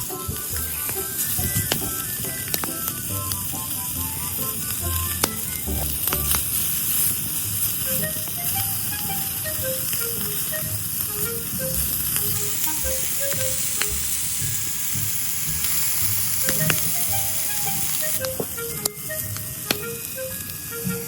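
Food sizzling as it cooks on a hot barbecue, a dense crackling hiss that thickens for several seconds in the middle, over light background music of short plucked notes.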